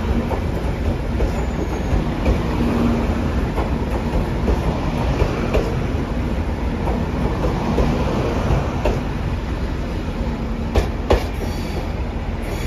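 JR Shikoku 8000 series electric train (the white Anpanman train) rolling past the platform as it moves to a holding track, a steady rumble with wheels clacking over rail joints. Two or three sharp knocks come about eleven seconds in.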